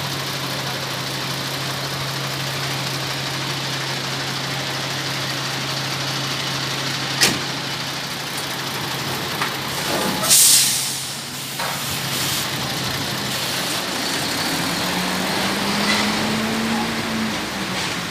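Scania P410 truck's diesel engine idling steadily. A single click comes about seven seconds in, a short hiss of compressed air about ten seconds in, and near the end the engine note rises and falls briefly.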